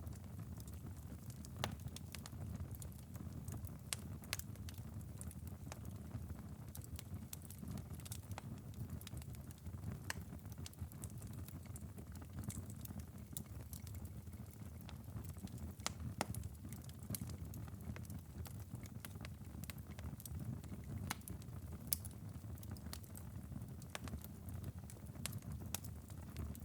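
Wood-fire ember bed in a fireplace, crackling and ticking with irregular sharp pops over a steady low rumble of the burning coals.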